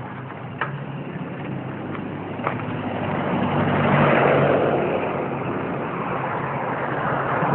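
A motor vehicle's engine runs steadily; the sound swells to its loudest about four seconds in and then eases, as a vehicle passes.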